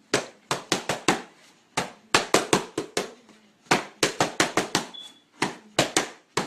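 Boxing punches landing in quick combinations: sharp slapping impacts in fast runs of three to five, with short pauses between the runs.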